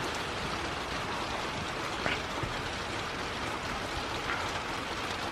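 Heavy rain falling steadily, with one sharper drop or tap about two seconds in.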